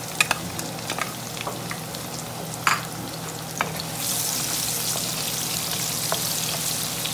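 Chopped onions sizzling in hot oil with whole cumin and spices in a nonstick wok over a high flame, with a few sharp taps in the first half as the onion goes in and the wooden spatula stirs. About four seconds in the sizzle grows louder and holds steady.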